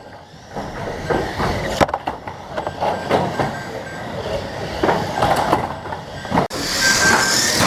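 Banger racing cars running on the track, with engines going and repeated metal knocks and clattering. The sound jumps abruptly twice, and gets louder and brighter for the last second or so.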